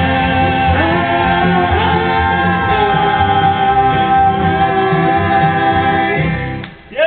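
A cowboy harmony vocal group with guitar holds the song's final chord in steady voices for several seconds, then cuts off sharply near the end.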